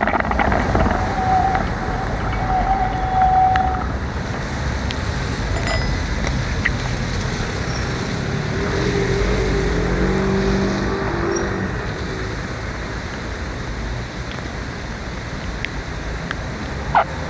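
Street traffic heard from a bicycle riding in rain: a steady hiss of tyres on the wet road and passing cars. A held tone lasts a couple of seconds near the start, and a passing vehicle's low hum comes through in the middle.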